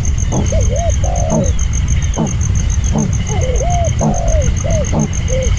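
A bird calling in short, rising-and-falling, coo-like notes repeated every half second or so, over a steady, rapidly pulsing high-pitched tone, faint chirps and a constant low rumble.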